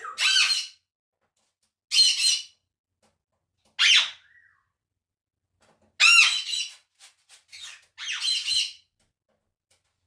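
A parrot squawking loudly, five harsh calls about two seconds apart, with a few short clicks between the fourth and fifth calls. This is a medium-loud parrot of the conure or African grey class.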